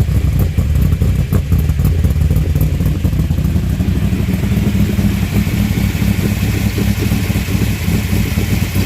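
1955 Chevrolet sedan delivery's newly installed engine running steadily. Its note strengthens a little about four seconds in.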